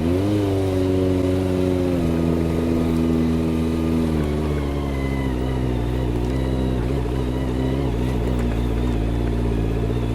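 Motorcycle engine running at low revs over a rough, broken road. The pitch rises briefly just after the start, drops a step about two seconds in, and then holds steady.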